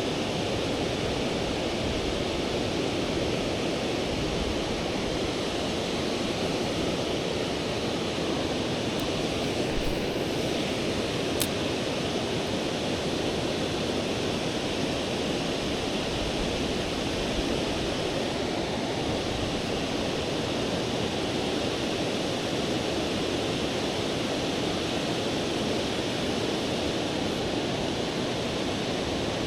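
Steady rushing of river water flowing over rocks, with a brief sharp click about eleven seconds in.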